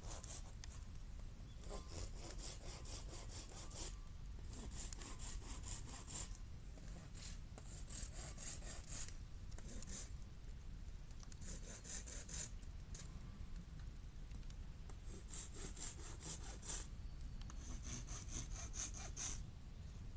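Hand saw cutting through bamboo in short runs of quick strokes about 1 to 2 seconds long, with pauses between, over a steady low rumble.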